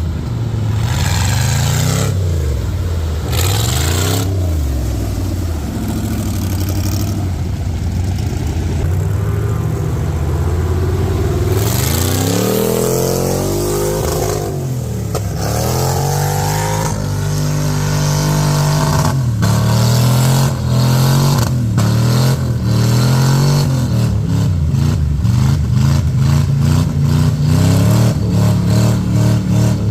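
Mud truck's engine revving hard at full throttle, its pitch swinging up and down again and again. From about twenty seconds in, a rapid fluttering chop runs over the engine.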